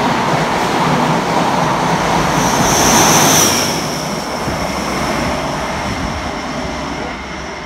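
Passenger train passing through a station at speed: a loud rush of wheel and rail noise, with a brief high whine about three seconds in as the last coach goes by, then the sound fades away.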